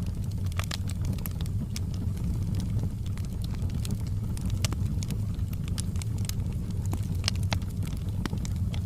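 Wood fire burning in a fireplace: a steady low rumble of the flames with frequent sharp crackles and pops scattered irregularly.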